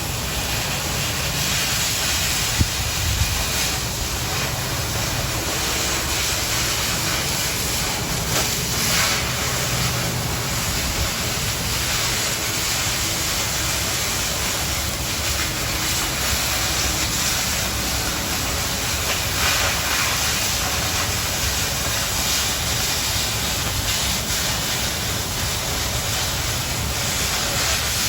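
Oxy-fuel cutting torch cutting quarter-inch steel plate: a steady hiss from the flame and cutting-oxygen jet, with one sharp pop about two and a half seconds in.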